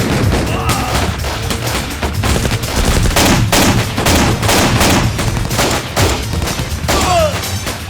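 Rapid gunfire in volleys of many shots, over dramatic score music with a heavy low bass. A short falling whine cuts through about seven seconds in.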